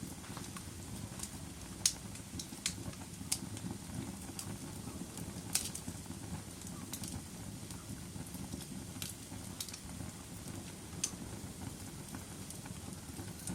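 Wood fire burning in a fireplace: a steady low rumble of flames, with sharp pops and crackles scattered irregularly, about a dozen.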